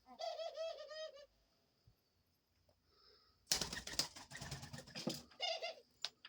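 Pet dove giving a rapid run of rolling, repeated call notes, then a burst of wing flapping about three and a half seconds in and another short call near the end, as it reacts in fear to a pink unicorn toy.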